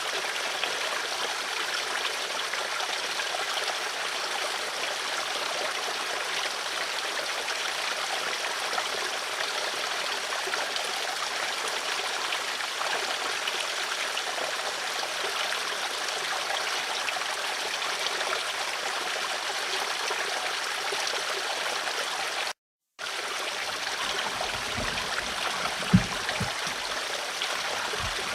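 Steady flowing water, an even rushing trickle. It cuts out completely for a moment late on, then returns with a few low thuds, one of them sharper and louder.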